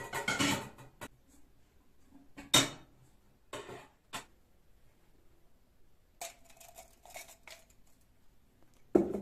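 Hard objects being handled: short bursts of clattering and clinking a second or two apart, with a sharp knock about two and a half seconds in and another near the end.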